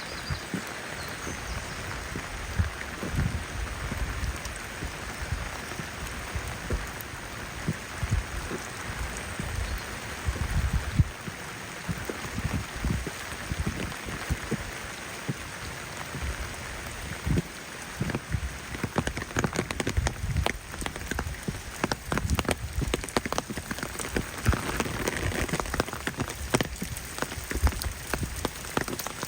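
Steady rain falling, with a dense, irregular patter of close drops that gets busier in the second half.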